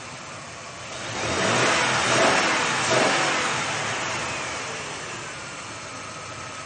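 A motor vehicle driving past: engine and road noise swell over the first two seconds, peak, then fade slowly away.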